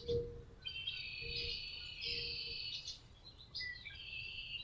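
Small birds singing outdoors, a twittering, warbling song in two runs: one from under a second in to past halfway, and another near the end.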